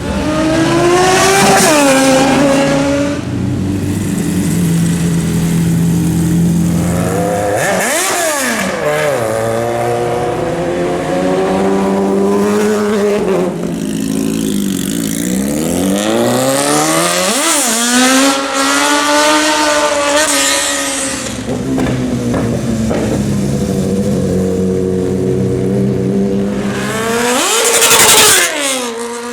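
Sport motorcycles accelerating hard past one after another. Engine pitch climbs, then drops sharply as each bike goes by, about three times, with a steady engine hum between passes. The loudest pass comes near the end.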